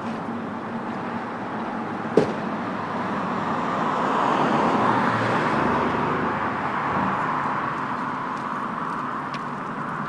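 A motor vehicle driving past, growing louder to a peak about halfway through and then fading away. A single sharp click about two seconds in.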